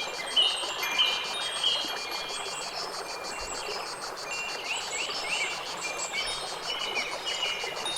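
Nature ambience: an insect trills in an even, fast pulse over a soft steady hiss. Clear chime-like held tones sound in the first couple of seconds, and quick rising bird chirps come in the middle.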